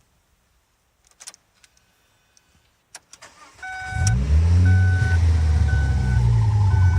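Ford Focus ST225's turbocharged 2.5-litre five-cylinder engine started: a few clicks, then it catches about four seconds in and settles to a steady idle while a dashboard warning chime beeps about once a second. Near the end a wavering whistle rises over the idle, the vacuum-side noise of a failed PCV valve.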